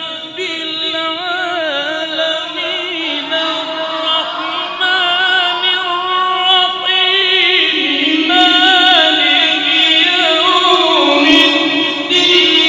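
Melodic Quran recitation by a single voice, with long held notes and ornamented turns of pitch.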